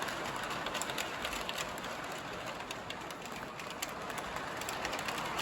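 O gauge model train running: an Amtrak Lionel LionChief locomotive pulling a long, heavy string of cars at low throttle, wheels rolling on the track with a steady rattle of small, frequent clicks.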